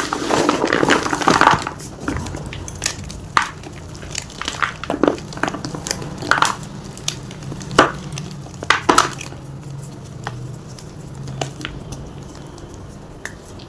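Gym chalk crunching and crumbling. There is a dense burst of crushing in the first second and a half, then scattered sharp cracks.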